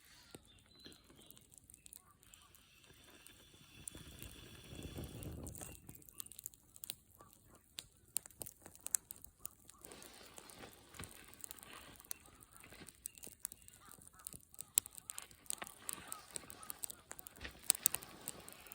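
Campfire crackling, with many sharp irregular pops and snaps of burning wood, and a low rumble swelling for a couple of seconds about four seconds in.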